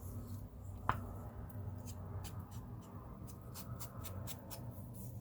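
Faint sounds of paper being handled on a craft table: a sharp click about a second in, then a run of light, irregular rustles and ticks, over a steady low hum.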